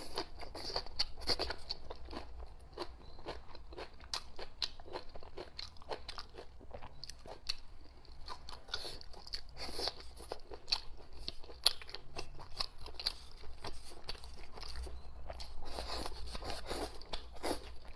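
A person chewing and biting into food with many quick, crisp crunches spread throughout.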